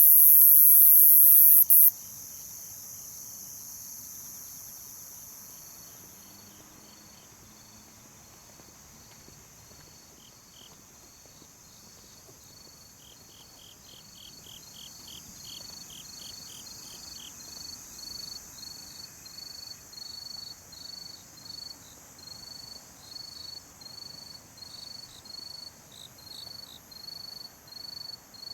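Night insect chorus of crickets. A loud, high, steady buzz cuts off suddenly about two seconds in. A fainter high drone continues after it, with short chirping trills, and a run of evenly spaced chirps grows louder toward the end.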